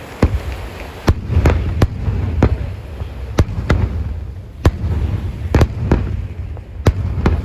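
Aerial fireworks shells bursting in a display: a rapid, irregular series of sharp bangs, about a dozen in a few seconds, over a continuous low rumble.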